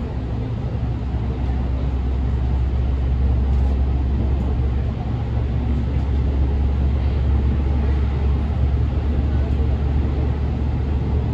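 JR Central 313 series 2300 subseries electric train running, heard inside the passenger car: a steady, loud low rumble of the wheels and running gear, growing slightly louder in the first couple of seconds.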